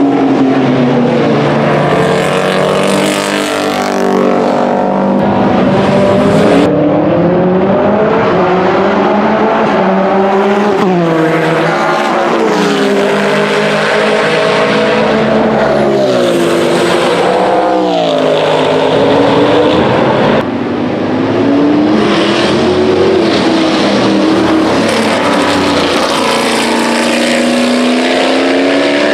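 Vintage race car engines running hard on track, their pitch climbing and dropping again and again through gear changes and braking. The sound changes abruptly twice, about a quarter and two-thirds of the way through.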